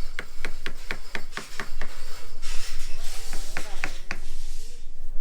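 Hammer blows in quick succession, about four or five a second, followed by a stretch of hissing noise and three more blows near the end, typical of carpenters nailing on a building site.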